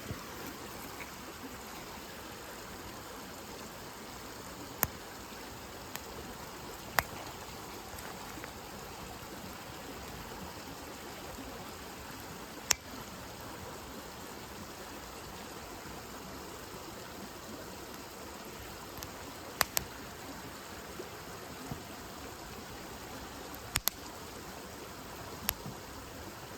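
Wood campfire burning: a steady hiss of flames with a sharp crackle or pop from the burning wood every few seconds.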